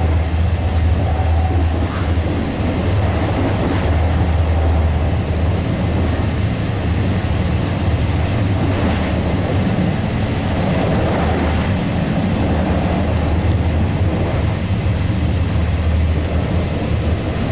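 Steady low rumble and running noise of a regional passenger train moving at speed, heard from inside the carriage, with a few faint clicks.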